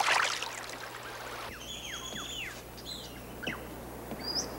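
Wild birds calling over a steady outdoor background: a run of high chirps and quick downward-sliding whistles starting about a second and a half in, another falling whistle a little later, and a short high note near the end.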